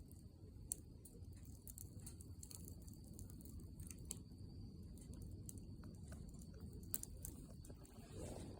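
Wood campfire burning quietly: scattered sharp crackles and pops from the burning firewood over a low, steady rush of the flames, with a couple of louder pops.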